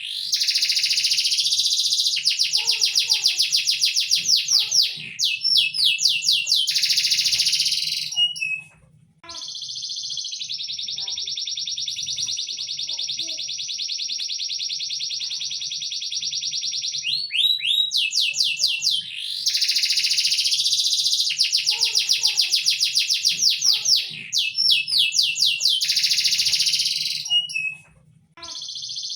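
A songbird singing loud, fast runs of repeated sweeping notes, with a long unbroken trill of several seconds in the middle. The song breaks off briefly twice, near the middle and near the end.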